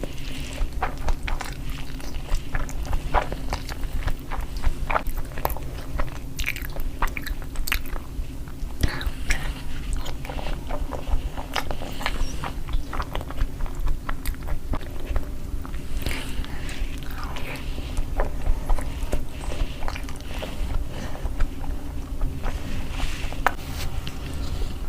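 Close-miked eating and chewing: irregular wet clicks and crunches of biting, chewing and swallowing over a steady low hum.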